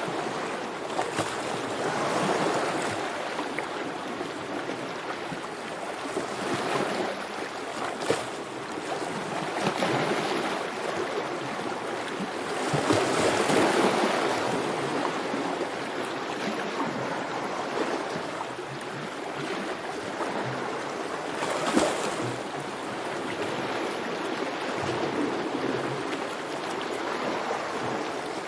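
Continuous rushing water that swells and eases every few seconds, like waves or a fast stream, with a couple of brief sharper splashes.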